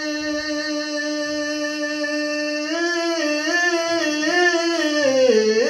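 A male voice singing a naat, holding one long note, then breaking into wavering ornaments with a dip in pitch near the end. A steady high hiss lies under it.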